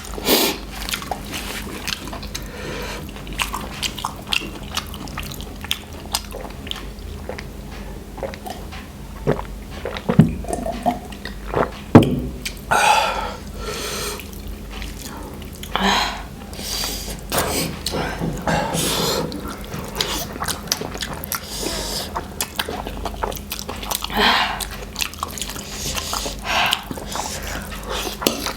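People eating spicy noodles close to the microphone: wet slurping and chewing, with scattered smacks and clicks.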